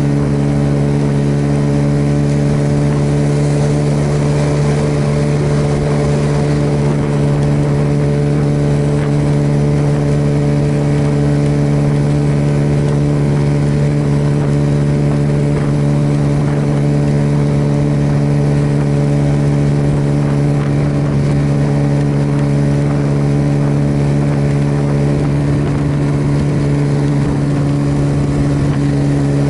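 Suzuki Yes motorcycle's single-cylinder engine running at a steady speed while cruising, with a steady rush of wind and road noise.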